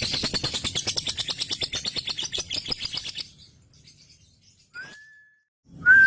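Male lovebird's 'ngekek' chatter: a fast, even run of short harsh notes, about ten a second, that stops about three seconds in. Near the end a steady high whistle starts, rising briefly at its onset and then holding one pitch.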